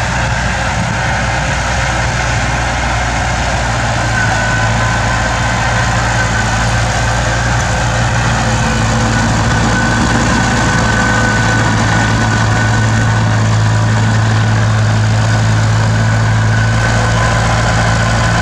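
Bulldozer's diesel engine running steadily, a deep even hum with a thin high whine over it.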